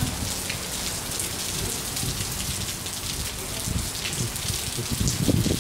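Heavy rain pouring onto a paved parking lot, a dense steady hiss, with a low rumble swelling near the end.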